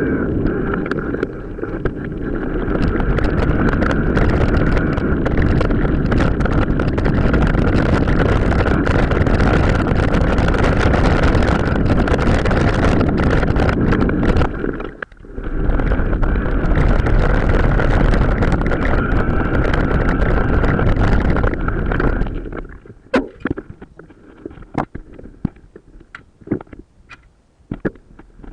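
Wind buffeting the microphone and the rattle of a mountain bike on an off-road trail, sped up several times. It cuts out briefly in the middle. About three quarters of the way through it drops to quieter scattered clicks and knocks.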